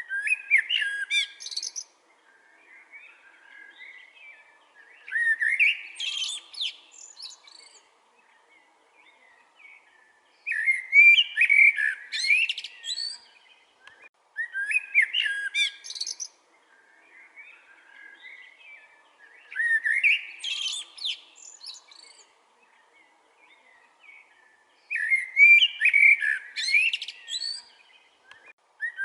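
Common blackbird singing: loud phrases of fluty whistles that break into high, squeaky notes, repeated about every four to five seconds, with quieter phrases in the gaps.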